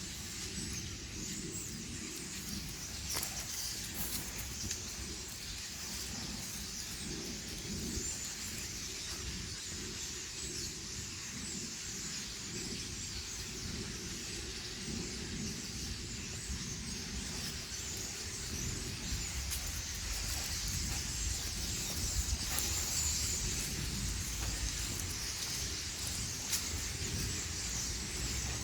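Wild birds chirping and calling against a steady outdoor hiss, over a low rumble that grows somewhat louder in the last third.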